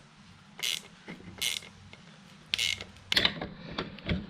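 Hand tools working on a car's rear suspension: three short bursts of metallic clicking about a second apart, then a run of small clicks and knocks near the end.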